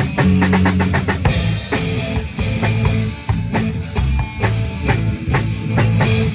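Live rock band playing an instrumental passage: drum kit keeping a steady beat with regular cymbal and snare hits, over guitar and low sustained notes.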